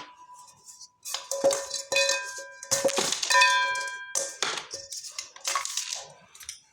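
Khadiya chalk being crushed and crumbled, about seven separate crunches in quick succession, with a ringing tone that lingers after several of them.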